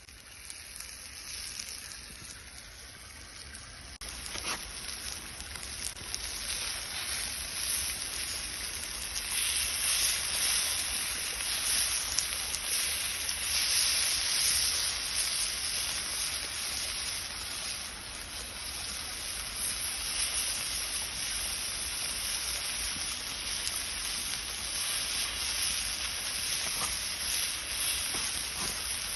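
Rushing water, a steady wash of noise that grows louder over the first ten seconds or so and then holds.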